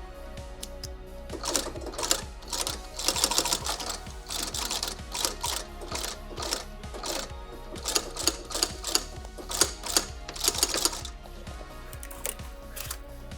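Sewing machine stitching glove leather in short runs of quick needle strokes, stopping and starting, over background music.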